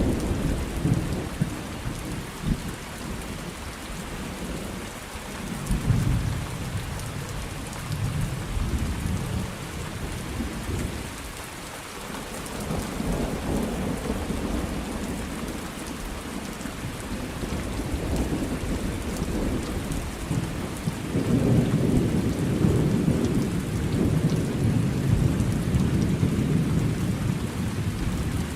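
Steady rain with rolling thunder: low rumbles swell and fade several times, with a lull about twelve seconds in and a long, louder rumble from about twenty-one seconds to near the end.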